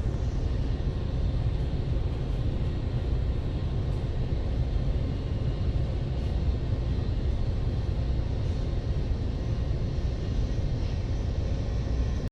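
Steady low rumble with a hiss over it: storm wind and sea heard aboard a large cargo ship, with the ship's machinery humming beneath.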